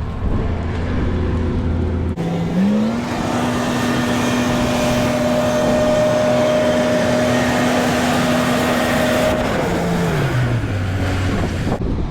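Large farm machine's engine running at a low hum, then throttled up to a steady higher speed held for several seconds before winding back down near the end.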